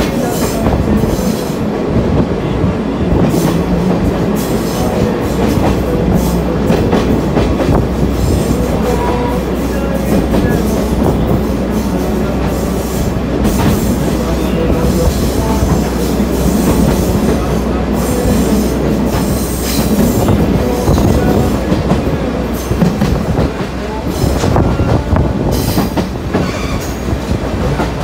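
Sagano Scenic Railway trolley car running along the track, its TR209 bogies clicking over the rail joints amid the steady running noise of the wheels, heard through the car's open sides.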